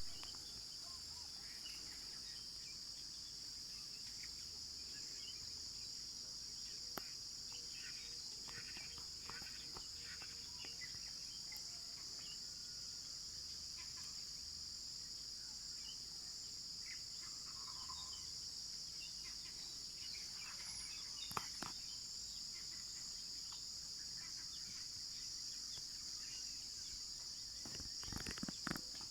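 Steady high-pitched insect chorus, a continuous trill, with a few faint short calls scattered through it and a brief cluster of knocks near the end.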